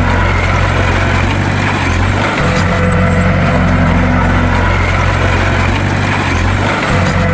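Bulldozer's diesel engine running steadily with a deep, loud drone. The low end briefly drops out about two seconds in and again near the end.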